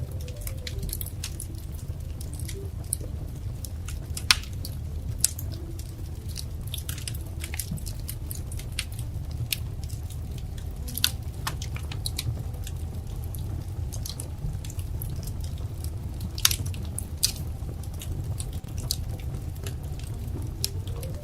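Wood fire crackling: a steady low rumble of burning with many small sharp pops and snaps, a few of them louder and standing out.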